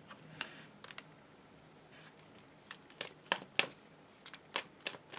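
Tarot cards being handled: a dozen or so short, light clicks and snaps at irregular intervals.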